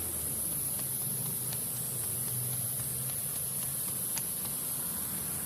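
Footsteps walking, heard as light, irregular ticks about once a second over a steady high hiss of crickets.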